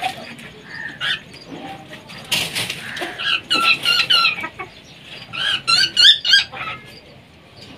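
Caged birds calling in a run of short, high-pitched, wavering squawks, in two clusters in the second half, with a brief flutter of wings about two seconds in.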